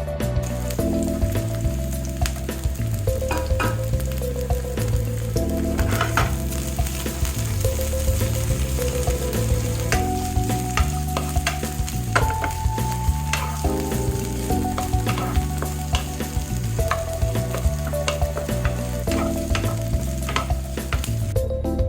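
Food frying in a hot pan, a steady sizzle with frequent short clicks of a spatula stirring against the pan, over background music.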